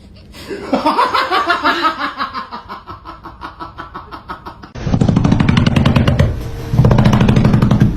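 A person laughing hard: a long run of quick ha-ha pulses that falls in pitch and trails off, then two louder spells of rapid pulsing about five and seven seconds in.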